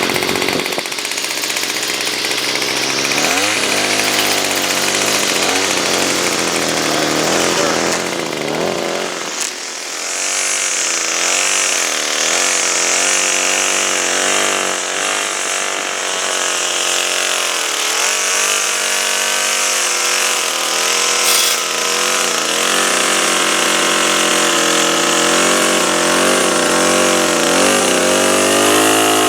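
The two-stroke engine of a Bolens BL110 string trimmer runs after its first start, its speed rising and falling again and again, with a brief drop about nine seconds in. It is a new engine being run in on its first tank of fuel before tuning.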